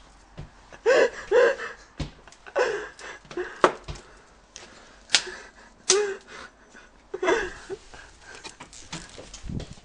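Short bursts of a person's voice with breathy sounds, and a few sharp knocks.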